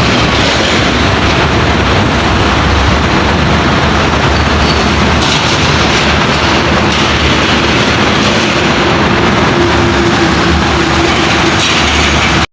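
Heavy trucks driving by on a road: a loud, steady rumble of engines and tyre noise that cuts off suddenly at the end.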